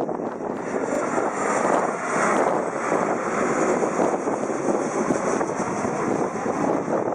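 Jet airliner engine noise from an aircraft flying over, a steady rushing sound with a faint high whine, mixed with wind on the microphone.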